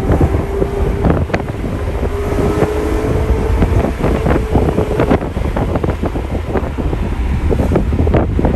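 BMW E90 M3's V8 running through a custom exhaust under hard driving, heard from inside the cabin under heavy road and wind rumble. A steady engine note holds for about the first five seconds, with frequent short sharp cracks throughout that grow denser later on.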